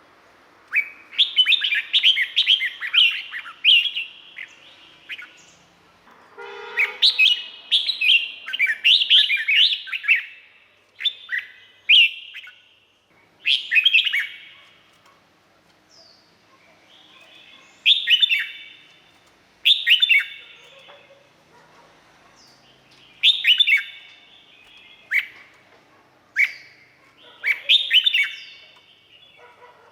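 Red-whiskered bulbul singing: short phrases of quick, sweeping whistled notes, repeated about a dozen times with pauses of a second or two between them.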